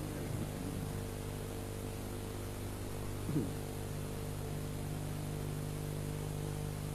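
Steady electrical mains hum with a faint hiss from the recording or sound system, with a brief faint voice-like sound about three seconds in.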